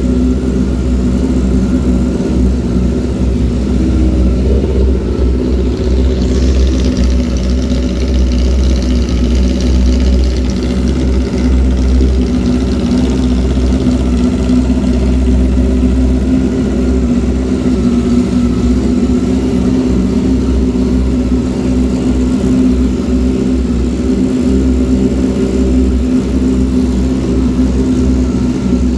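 1997 Honda CBR600F3's inline-four engine idling steadily through its exhaust.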